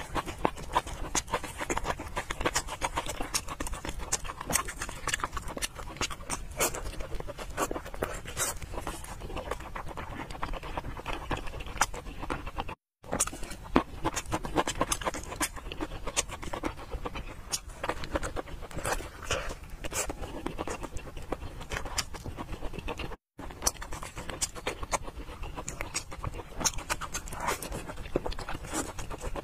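Close-up eating sounds of fatty braised pork belly being bitten and chewed: a dense run of small clicks and squelches from mouth and lips. The sound drops out for an instant twice, about 13 and 23 seconds in.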